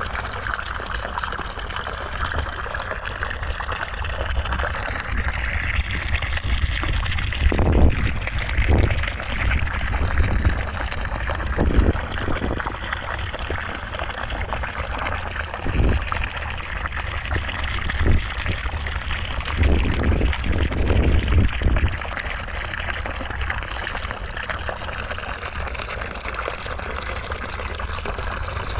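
Steady rush of running water used as white noise, with several brief louder surges and low rumbles in the middle stretch.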